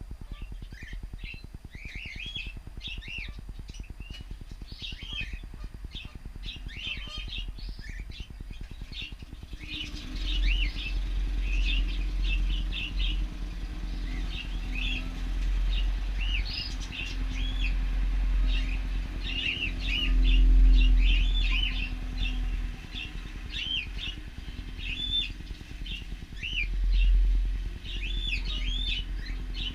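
Cockatiels in an aviary chirping with many short, quick calls. About ten seconds in, a low engine-like drone comes in beneath them, swelling and fading, loudest around twenty seconds in and again near the end.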